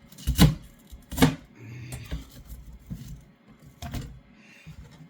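Kitchen knife chopping cabbage on a chopping board: a few sharp knocks, the loudest in the first second and a half, then lighter cuts.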